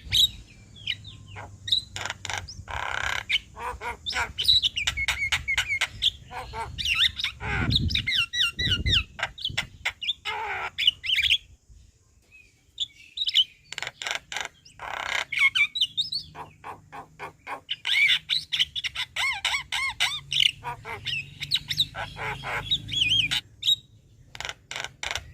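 Javan myna (jalak kebo) in full chattering song: rapid clicks, warbled whistles and harsh notes, with a short pause about halfway through.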